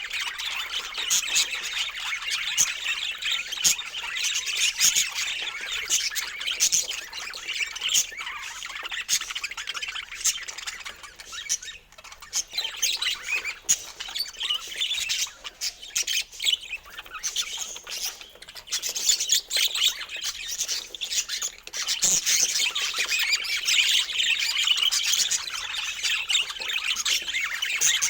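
Many birds calling at once, a dense chatter of overlapping chirps and squawks that thins out for a while about the middle and then fills in again.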